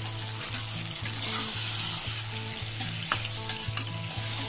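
Marinated chicken pieces sizzling as they fry in hot oil and garlic butter in a kadhai. A metal spatula stirs them, clicking and scraping against the pan, with one sharper knock about three seconds in.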